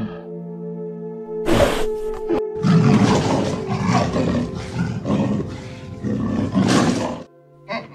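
Cougar calling in a run of harsh, hoarse bursts, starting about a second and a half in and stopping shortly before the end, over steady background music.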